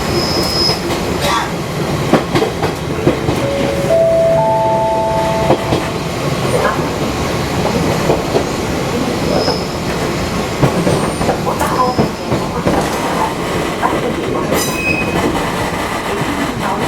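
Fukui Railway 200-series electric train running along the track, a steady rumble of wheels and rails with scattered clicks and knocks. About four seconds in, a brief three-note chime rises in pitch.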